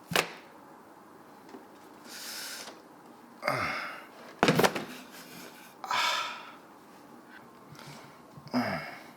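A person's breathing: several sharp breaths a second or two apart, with a sharp click about four and a half seconds in.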